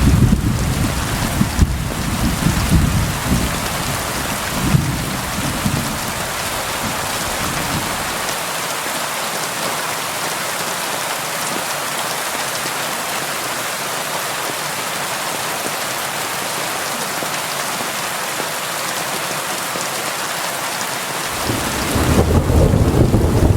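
Steady heavy rain. Thunder rumbles over the first several seconds, dies away, and rumbles again near the end.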